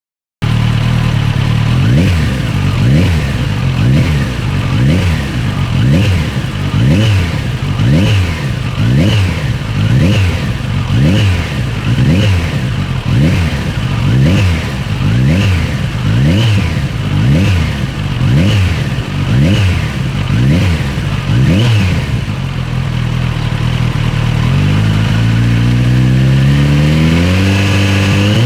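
Kawasaki Ninja 1100SX inline-four engine breathing through a TRICK STAR IKAZUCHI slip-on muffler, blipped in quick revs about once a second. It then settles to idle briefly and revs up slowly near the end.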